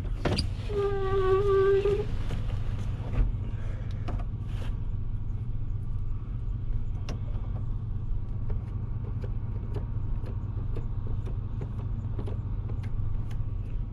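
Plow truck's engine idling steadily, heard from inside the cab. About a second in, a short steady whine lasts roughly a second, and light clicks come and go.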